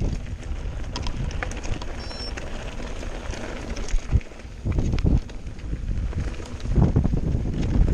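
Mountain bike riding downhill over rough ground: wind buffeting the microphone in gusts, with the rattle and short clicks of the bike and tyres over stones.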